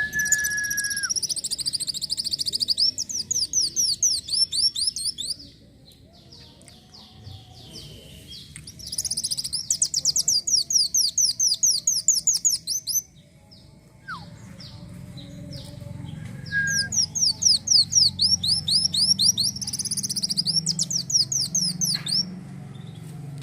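A kolibri wulung sunbird singing in full song: three long runs of rapid, high, fast-falling chirps, each lasting a few seconds with short pauses between. A low steady hum sits underneath in the second half.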